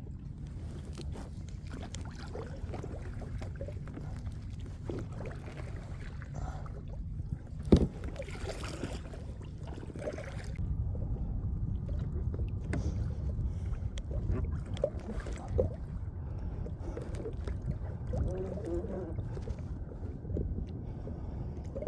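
Kayak moving through the water, with a steady low rumble of water along the hull and scattered light knocks. One sharp knock comes about eight seconds in.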